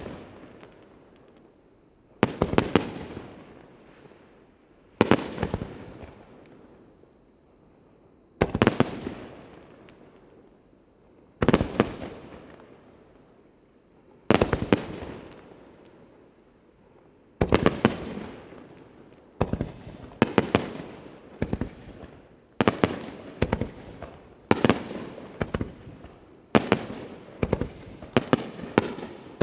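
Aerial firework shells bursting, each a sharp bang followed by a fading rumble and echo. The bursts come every few seconds at first, then quicken to about one a second through the second half.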